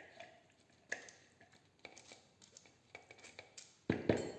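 Soft taps and squelches of boiled eggplant being moved by hand into a mini food processor bowl, with a few louder knocks near the end.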